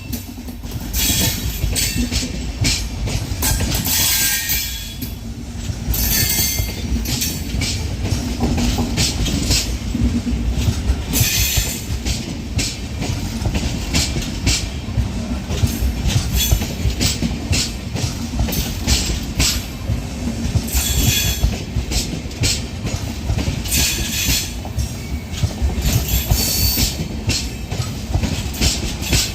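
A train running past on the track: a steady rumble of wheels, with irregular clattering of wheels over rail joints and brief high squeals from the wheels.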